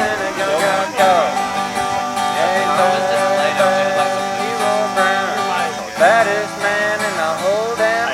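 Acoustic guitar played and strummed, with a melody of sliding, bending notes over held chords.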